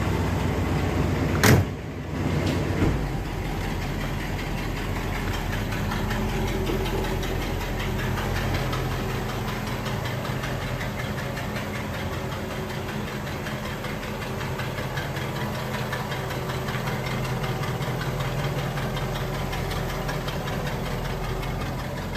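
1959 Cadillac DeVille's 6.4-litre V8 running steadily, freshly filled with new coolant. A single sharp knock sounds about a second and a half in.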